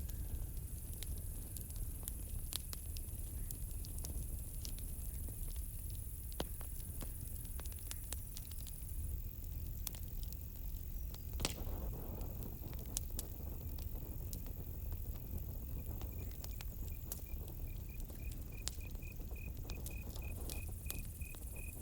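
Campfire crackling with frequent sharp pops over a low steady rumble, with a high, thin insect hiss that drops away about halfway through. About two-thirds of the way in, a cricket starts a fast, even run of high chirps.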